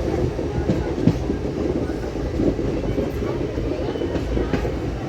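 Steady low rumble and rattle of a moving train, with its wheels knocking over rail joints a few times.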